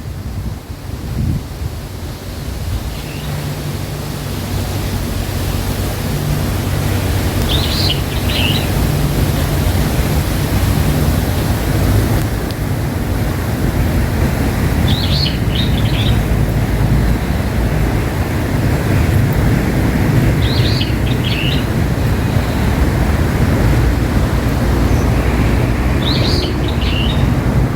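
A bird gives a short chirping phrase four times, about every six seconds, over a steady low rumble of wind on the microphone.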